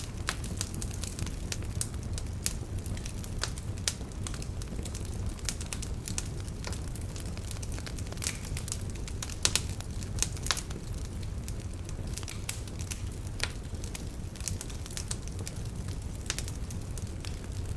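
Wood logs burning in a fireplace: irregular sharp crackles and pops over a steady low rumble of the flames, with the loudest pops about nine and a half to ten and a half seconds in.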